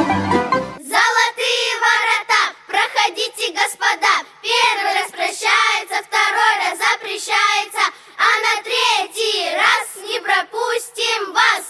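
Children's voices singing unaccompanied, with a pitch that bends up and down, after the instrumental music cuts off about a second in.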